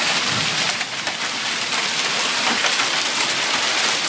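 Heavy storm downpour of rain and hail hitting the ground and surfaces around: a dense, steady hiss peppered with many small sharp hits.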